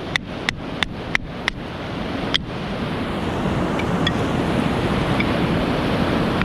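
Rapid, evenly spaced knocks, about three a second, of firewood being split, stopping about one and a half seconds in, with a single further knock a second later. A steady rushing noise runs underneath and grows louder once the knocking stops.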